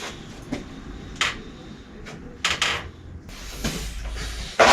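A few short knocks and clicks of handling, with the loudest knock just before the end.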